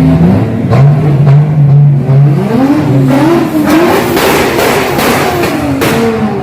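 Sports car engine held at a steady note, then revved, its pitch climbing and rising and falling.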